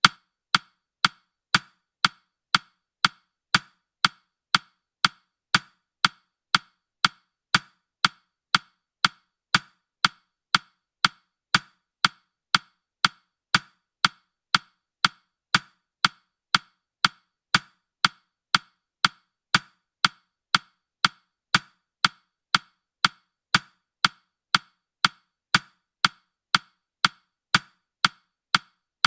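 Countdown timer's clock-tick sound effect: steady, evenly spaced woody ticks, about two a second.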